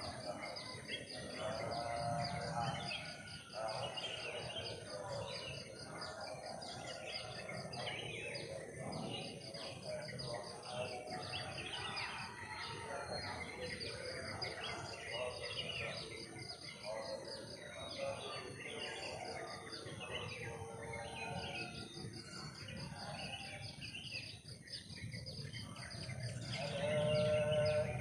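Forest ambience: insects keep up a steady, high pulsing trill while birds chirp and call throughout.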